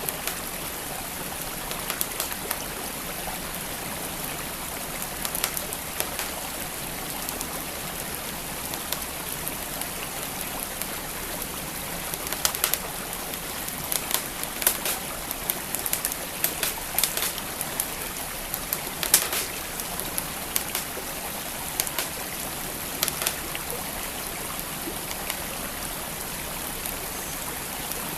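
Wood fire crackling, with scattered sharp pops that come thickest in the middle stretch, over the steady rush of a flowing stream.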